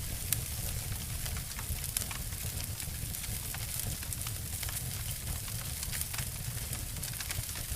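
Wood fires crackling and snapping, with frequent irregular sharp pops over a steady hiss and a low rumble.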